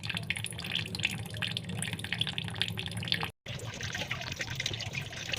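Water running and splashing, with many small drips and clicks. The sound cuts out briefly about three seconds in, then resumes.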